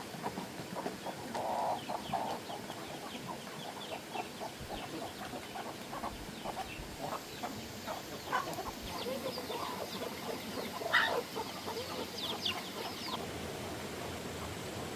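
Chickens clucking: many short, quick calls over a steady hiss, dying away about thirteen seconds in.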